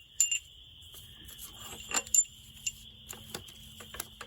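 Loose steel head bolts and tools clinking and clicking as they are handled, in several sharp, irregular metallic strikes, with a faint steady high whine behind them.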